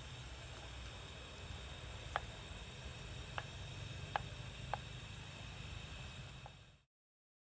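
Steady light rain, a soft even hiss with a few distinct drops landing close by, fading out to silence near the end.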